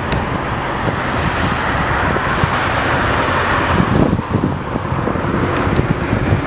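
Jet airliner engines roaring as the aircraft passes, swelling and then easing, with wind buffeting the microphone.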